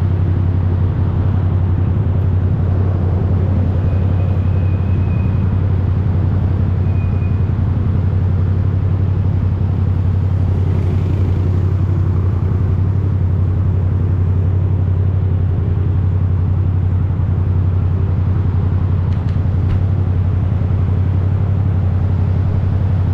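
Yamaha YZF-R7's parallel-twin engine through an Akrapovic full exhaust, running loud at one steady pitch with no revving.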